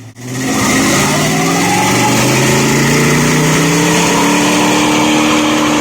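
Chevrolet 305 small-block V8 in an S-10 pickup revving: the engine note climbs slowly and steadily for about five seconds, held at high revs.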